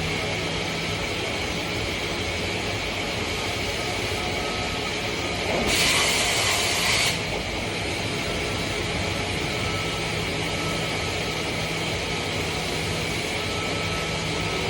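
CNC machine running with a steady mechanical hum and whine. About six seconds in, a loud hiss lasts a little over a second.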